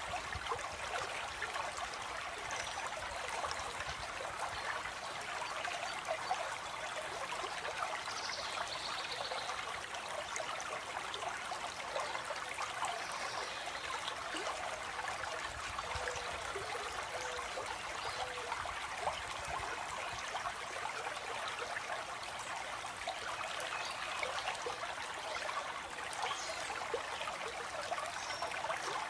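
Shallow stream flowing over stones, a steady, even trickling and splashing. A faint bird call comes through about eight seconds in.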